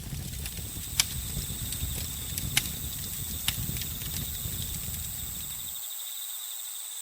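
Campfire crackling with three sharp pops, over a steady chorus of crickets and other insects chirping. The low rumble of the fire cuts out for about the last second.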